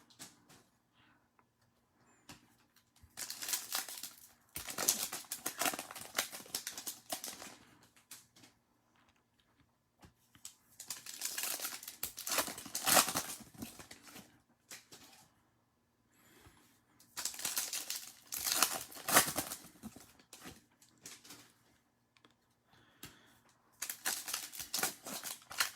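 Trading-card pack wrappers crinkling and cards being handled, in four bursts of rapid crackling and clicking a few seconds each, with quiet between.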